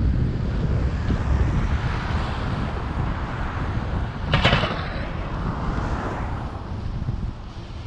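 Wind buffeting the microphone of a camera on a moving bicycle, over a steady low rumble from riding. About halfway through there is one short rattle.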